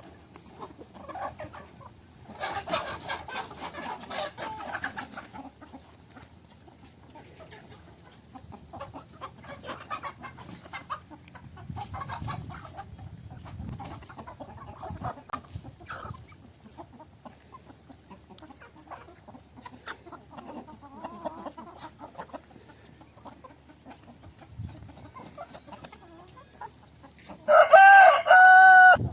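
Domestic chickens clucking on and off, busiest a few seconds in. Near the end a rooster crows loudly, the loudest sound here.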